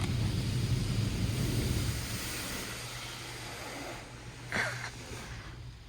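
Touch-free automatic car wash spraying water at the car, a steady rushing over a low hum, fading toward the end. One short knock about four and a half seconds in.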